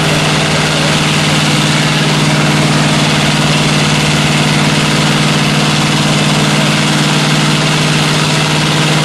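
A car engine held at steady revs, one unchanging pitch throughout, over a loud, even hiss.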